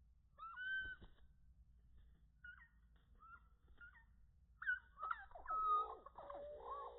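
Chickadees calling: scattered short chirps and whistled notes, then a denser run of harsher calls starting about five seconds in.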